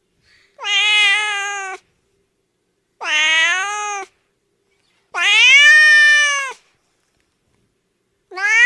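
Domestic cat meowing: three long meows, each rising and then falling in pitch, about two seconds apart, with a fourth starting near the end.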